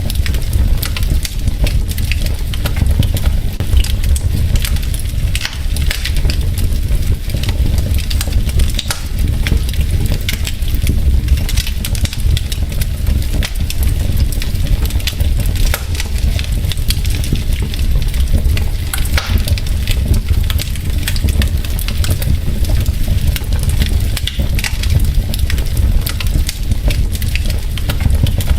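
Burning logs in a fireplace crackling, with frequent irregular sharp pops over a steady low rumble of the fire.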